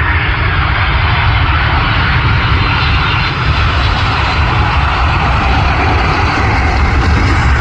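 A landing airplane's engines passing close by: a loud, steady rush of noise over a deep rumble.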